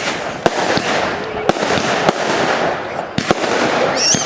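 Fireworks display: a rapid, irregular series of sharp bangs over a continuous crackling wash, about eight to ten reports in four seconds.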